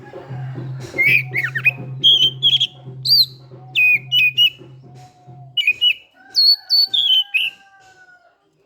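Oriental magpie-robin (kacer) singing a run of loud, quick whistled notes and sliding chirps. Background music with a steady beat runs under it and drops out a little past halfway, after which two long, slightly falling whistles are heard.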